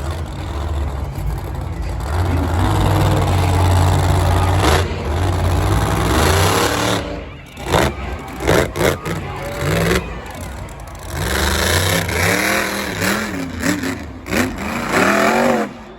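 A big truck engine running loud and steady under heavy throttle, cutting off sharply about seven seconds in, after which voices take over.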